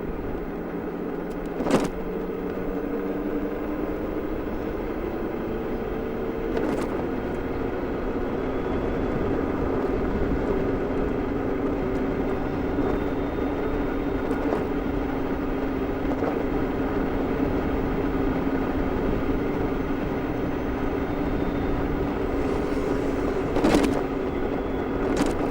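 Super Soco TC Wanderer electric motorcycle under way: a steady electric-motor whine made of a few tones that drift slowly up and down in pitch as the speed changes, over a rushing wind and road noise. There are short knocks about 2 seconds in, about 7 seconds in and near the end.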